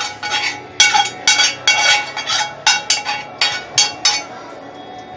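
Metal kitchen utensil knocking and scraping cooked ground beef out of a cast iron skillet into a strainer: a quick run of a dozen or so sharp ringing clinks that stops about four seconds in.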